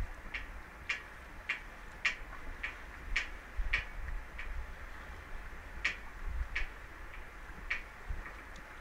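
Light, sharp ticking, about two ticks a second, with a break of about a second and a half in the middle, over a low rumble.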